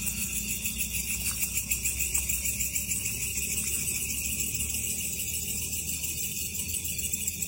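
Chorus of night insects such as crickets, a steady high-pitched shrill trilling that pulses rapidly, over a faint low rumble.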